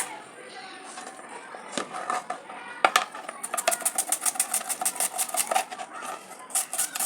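A utensil clattering rapidly against a cooking pot, about ten strikes a second, over background music.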